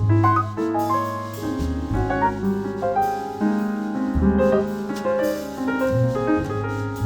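Live jazz quartet playing a slow ballad, with the piano to the fore in sustained chords over held low bass notes.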